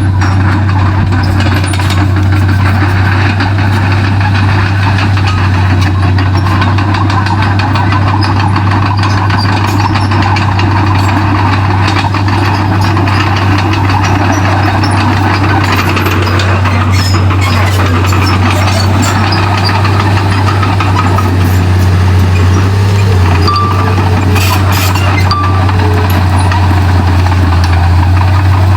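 Komatsu D31P bulldozer's diesel engine running steadily, with a strong, constant low drone.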